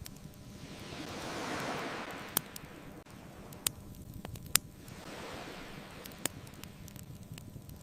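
Ocean waves washing in twice, each swelling and fading away, under a crackling wood fire that gives a few sharp pops, the loudest about halfway through.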